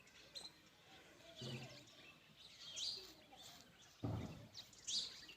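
Small birds chirping in short, high calls every second or so. A brief low rumble comes about four seconds in.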